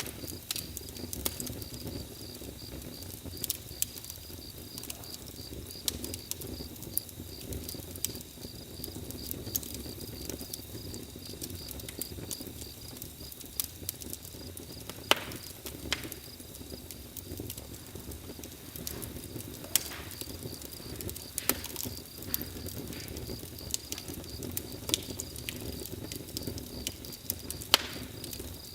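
Campfire crackling, with irregular sharp pops, a few much louder than the rest, over a low steady rumble of the flames. Crickets chirp steadily behind it in a fast, even pulse.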